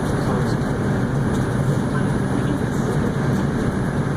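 Interior of an R142 subway car running between stations: a steady rumble of wheels on rail and car noise, even in level throughout.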